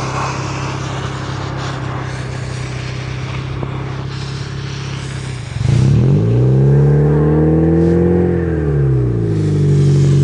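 Honda Civic engine running at a steady pace with tyre and wind noise. About halfway through it suddenly gets louder and revs up, holds for a couple of seconds, then falls back and runs steadily.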